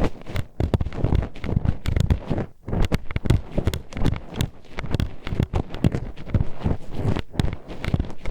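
Metal hairpin pushed into and worked around an ASMR microphone's ear: a dense, irregular run of clacks and knocks with heavy low thuds, pausing briefly about two and a half seconds in.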